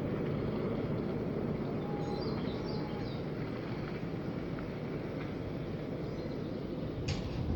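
Low, steady rumble of military aircraft in a flypast, slowly fading.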